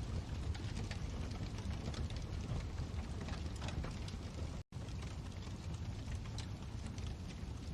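Fireplace wood fire crackling: scattered sharp pops and snaps over a steady low rumble of the flames. The sound drops out completely for an instant about halfway through.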